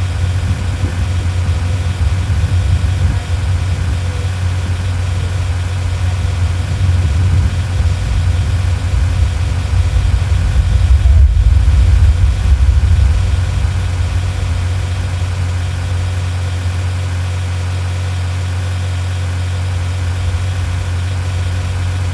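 A vehicle engine running steadily, with a loud low rumble and steady tones above it.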